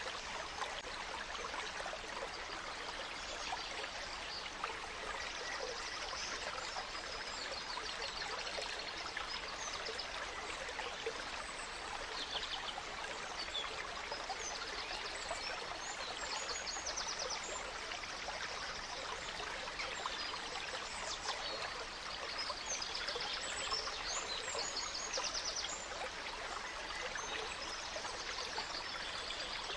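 A small stream running and trickling steadily, with songbirds chirping and trilling now and then over it.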